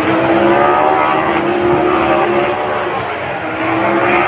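Racing motorcycle engines running at high revs on the circuit: a loud, continuous high-pitched engine drone whose pitch drifts up and down.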